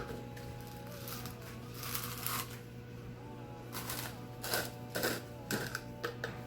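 A series of light knocks and clatters, about half a dozen spread through, over steady background music.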